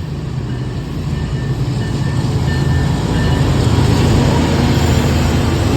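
Diesel locomotives of a freight train passing close by under heavy load, engines working hard with a deep steady drone over the rumble of the train. The sound grows louder over the first few seconds as the engines draw near, then holds.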